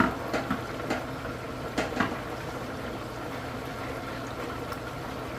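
Hot oil bubbling steadily in a turkey fryer just after the turkey has been lifted out, with a few light knocks in the first two seconds.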